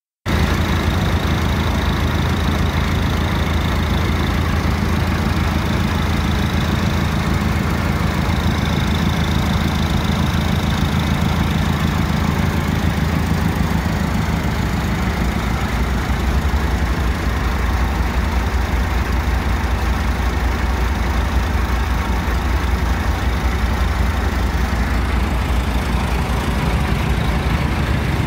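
Massey Ferguson 390 4×4 tractor's diesel engine running steadily at a low, even speed.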